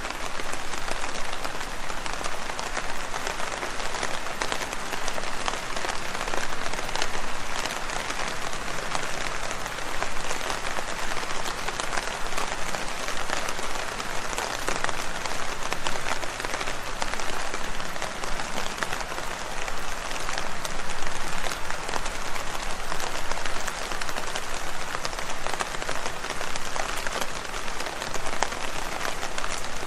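Steady rain, a dense patter of drops striking leaves.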